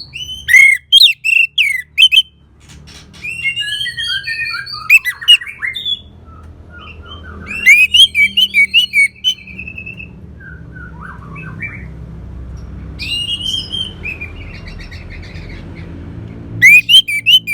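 Orange-headed thrush singing: loud phrases of rapid, gliding whistles and chattering notes, coming in bursts a second or two apart, over a faint low hum.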